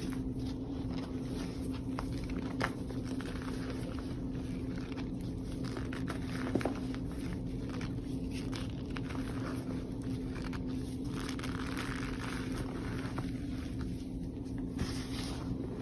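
Reformed powder blocks crumbled and crushed between the fingers: soft, crumbly crunching with scattered crisp snaps, over a steady low hum.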